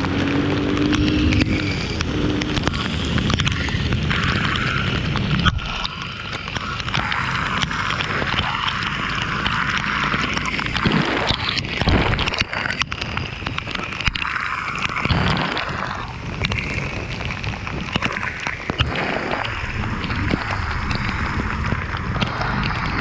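Wind rushing over the microphone on a moving ride in the rain, over steady road and vehicle noise, with the gusts rising and falling.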